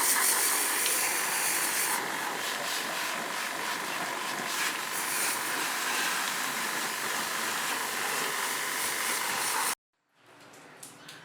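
Pressure washer spraying water into a split air conditioner unit: a steady hiss of spray over the running pump motor. It stops abruptly about ten seconds in, followed by a few faint clicks.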